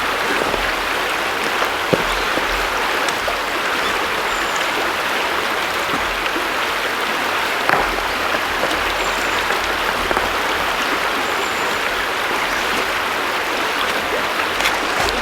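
River water flowing steadily, a continuous rushing sound, with a few faint clicks and three brief high chirps over it.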